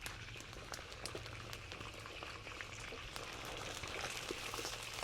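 Food bubbling and sizzling in a cooking pot, with scattered small pops and crackles over a steady noisy hiss.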